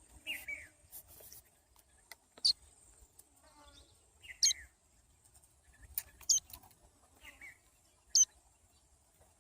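A fallen nestling bird cheeping: short, sharp high cheeps about every two seconds, with softer, lower falling chirps between them. The speaker takes the young bird to be hungry.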